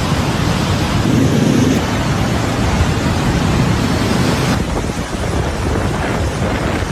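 Loud, steady rushing noise of storm weather: wind and water. The hiss thins suddenly about four and a half seconds in.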